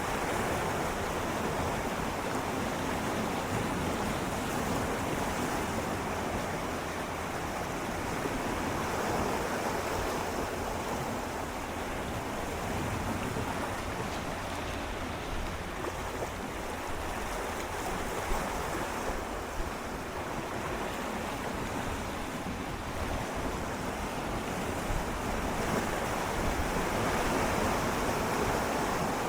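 Gentle sea water swirling and lapping against shoreline rocks, a steady wash that swells and eases slowly, with a few small splashes and a low rumble of wind on the microphone.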